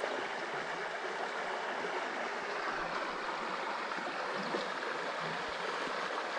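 Small creek water running steadily, an even rushing hiss.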